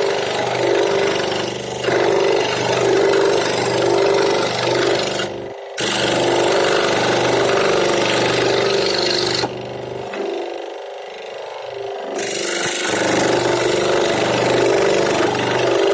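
Electric power tool running while it works wood, a steady motor hum under a rasping cut. It cuts out briefly about five seconds in and runs lighter for a couple of seconds after the middle before biting back into the wood.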